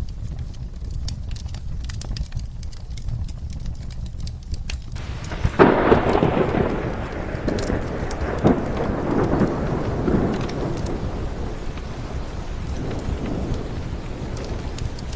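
Steady rain with a fireplace crackling, then a sudden thunderclap about five seconds in that rumbles away over the next several seconds.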